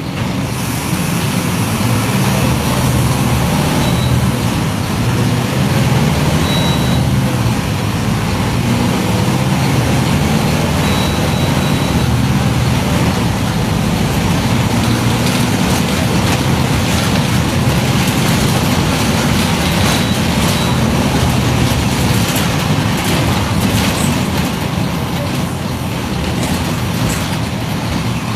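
Mercedes-Benz OF-1721 BlueTec 5 bus's diesel engine running steadily.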